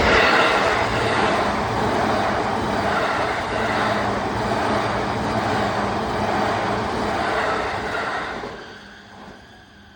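Keihin-Tohoku Line electric commuter train rolling past over a level crossing, a steady loud noise of wheels on rails that fades away about eight and a half seconds in as the train clears.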